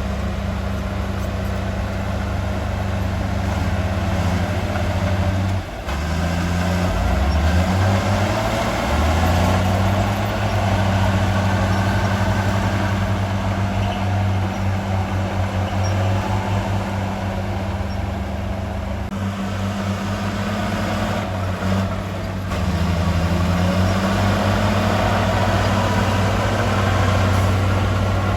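Heavy diesel engine of earthmoving machinery running continuously. Its pitch drops and climbs again a few times, most clearly about six seconds in and again past twenty seconds, as the throttle or load changes.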